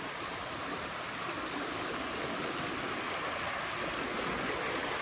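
Shallow creek water rushing steadily over rocks, growing a little louder toward the end.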